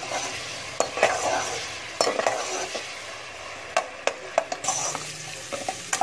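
Ginger-garlic paste sizzling in hot oil in a metal pot while a spatula stirs it, with irregular clicks and scrapes of the spatula against the pot. The sizzle grows louder and hissier a little before the end.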